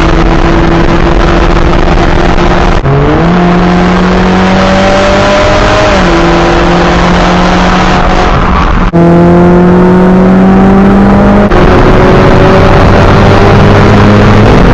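Loud exhaust of an Audi with the muffler and resonator deleted, the engine held at steady revs and raised and dropped a few times, in short joined clips.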